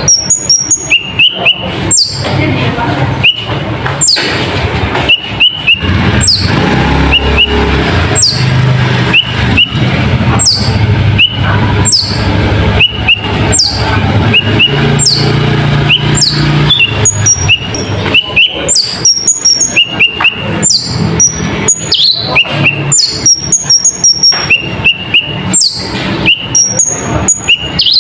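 Konin (kolibri ninja), a small sunbird, singing a repeated high, sharp downward-sweeping note about once a second, mixed with quick short chirps. A low hum runs under the middle part of the song.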